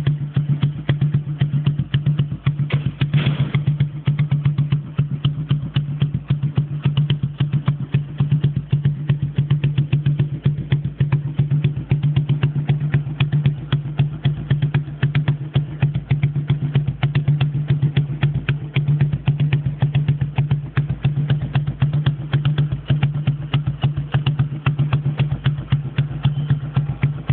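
An engine running steadily at idle, with a rapid, even pulse over a low hum.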